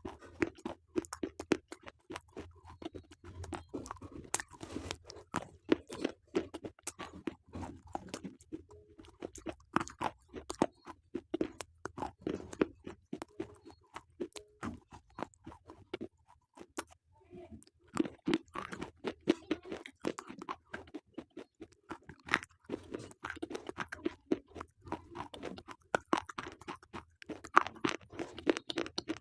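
A person chewing slate pencils, with rapid sharp crunches as the brittle sticks break between the teeth. The chewing pauses briefly a little past halfway, then resumes just as densely.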